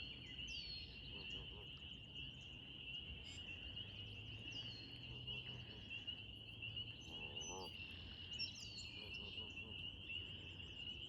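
Goslings peeping faintly: short, high, downward-sliding peeps repeated every second or two, over a steady high-pitched chorus in the background.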